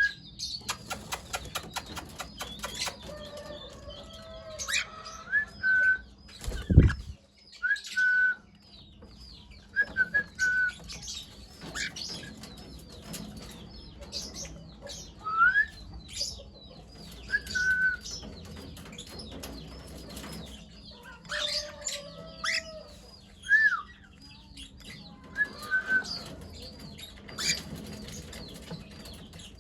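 Cockatiels giving short whistled chirps again and again, some rising in pitch, over many sharp clicks, with a fast run of clicks in the first few seconds. A single loud low thump comes about seven seconds in.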